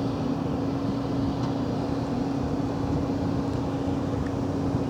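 A machine's steady drone with a constant low hum that does not change.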